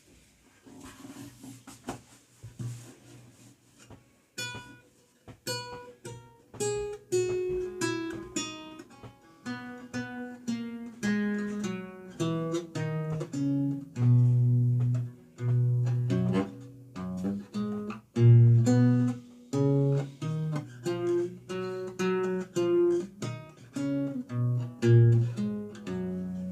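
Renaissance lute played solo: separate plucked notes ringing over lower bass notes, soft at first and growing fuller about four seconds in.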